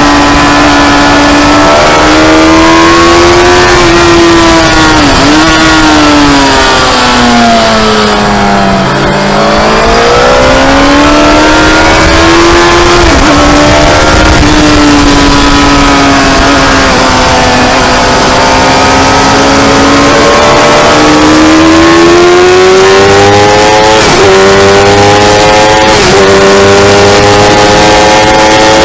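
Motorcycle engine ridden hard on track: the engine note drops steeply, as the rider brakes and shifts down, to its lowest about nine seconds in, then climbs again with quick upshifts, each heard as a short dip in pitch.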